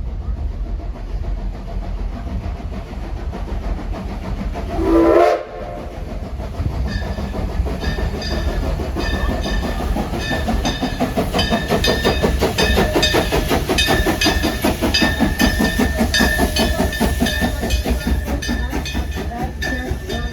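Steam train running, with a short, loud rising whistle blast about five seconds in. From about seven seconds the train sets up a fast, even clatter with a thin, steady high tone over it.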